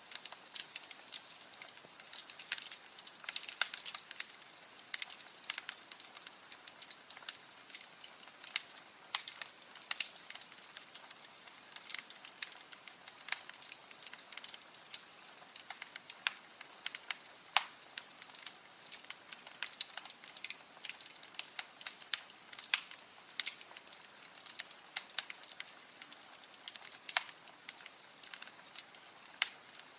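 Wood fire crackling in a fireplace: a steady hiss with frequent irregular pops and snaps, some much louder than others.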